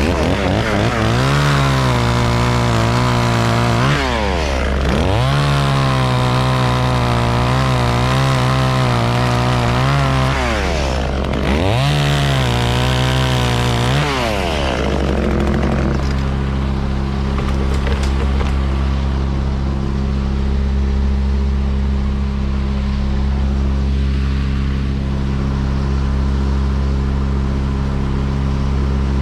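Chainsaw revved up to full throttle three times and held there for a few seconds each time, the middle run the longest, then dropping back to a steady lower running speed about halfway through. A steady low engine hum runs underneath throughout.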